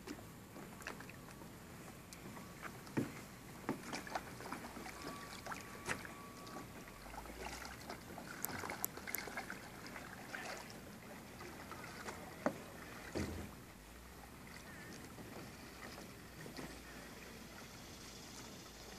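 Kayak on the water: irregular light knocks and splashes of paddle and hull.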